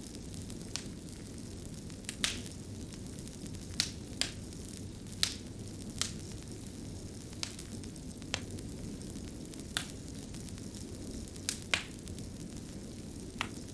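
Wood fire burning with a steady low rumble and irregular sharp crackles and pops, about a dozen in this stretch.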